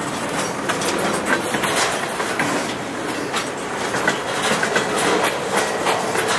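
Empty centerbeam flatcars of a freight train rolling past, their steel wheels clicking and clattering irregularly over the rail.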